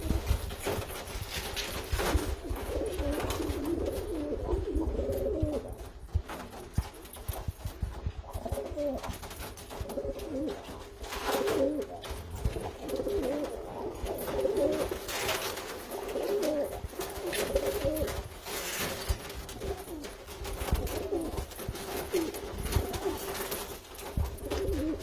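Domestic pigeons cooing, several birds calling one over another almost without pause, with scattered short clicks and knocks.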